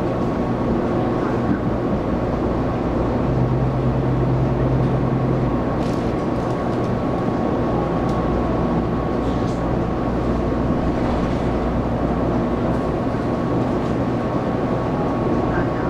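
Taiwan Railways local electric multiple unit running at speed, heard from inside the carriage: a steady rumble of wheels on rail and traction gear with a faint steady whine. A low hum rises for about two seconds a few seconds in.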